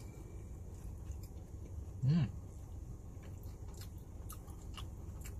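Close-up chewing of fried chicken coated in gulai curry sauce, with small wet mouth clicks and crunches over a steady low hum. About two seconds in comes a short hummed "mm".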